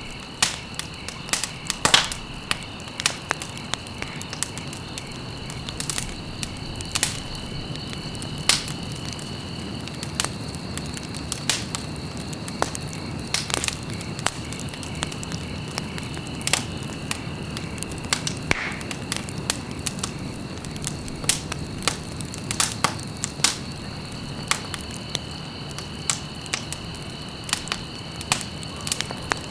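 Wood fire burning in a fireplace, crackling with irregular sharp pops of varying strength over a low, steady rush of flame.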